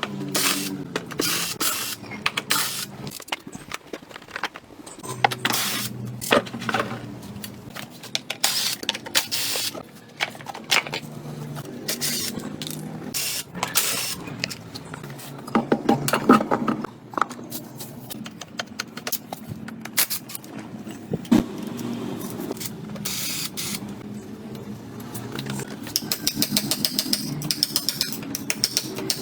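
Irregular clinks, knocks and scrapes of hand tools and metal parts being worked on in a workshop, with several louder strikes in the middle and a stretch of scraping near the end.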